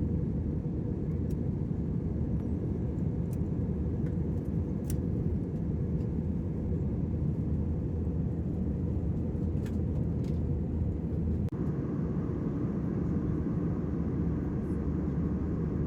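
Steady low rumble of an airliner's engines and airflow, heard from inside the cabin, with a few faint clicks. The sound shifts slightly about two-thirds of the way through.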